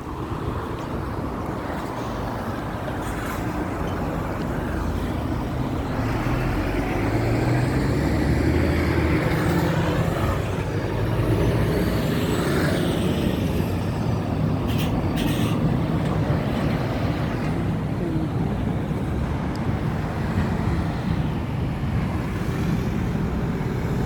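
Steady road noise from a moving car, engine and tyre rumble, growing louder over the first several seconds and then holding steady.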